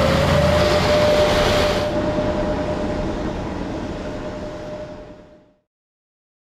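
Large dump truck running, with a steady whine over its noise that rises slightly in pitch early on, then fading out over about five seconds.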